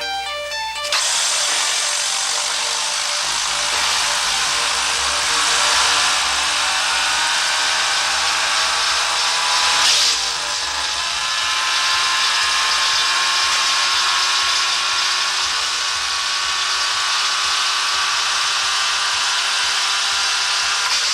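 Woodchipper running and grinding through hard material, a loud, steady, noisy churn with a sharper jolt about ten seconds in. It starts just after a few electronic music notes.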